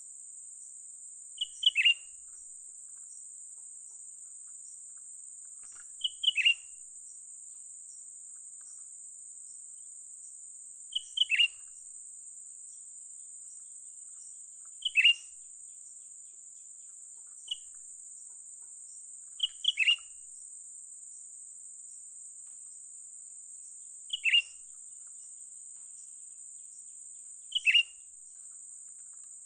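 Cucak ranting calls: short clusters of two or three quick notes, each dropping in pitch, repeated evenly about every four to five seconds, over a steady high-pitched insect drone.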